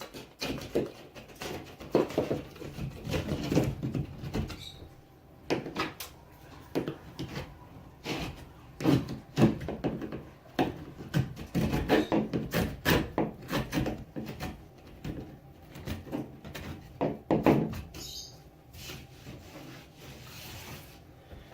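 A 5-in-1 painter's tool scraping and raking out a crack in drywall in many short, irregular strokes, with light knocks in between. This opens the crack up before it is filled.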